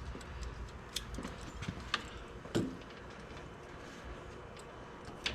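A few sharp clicks and light metallic knocks, scattered irregularly, the loudest a little past halfway: hand tools and small metal parts being handled while clamps are fitted to a UTV's suspension.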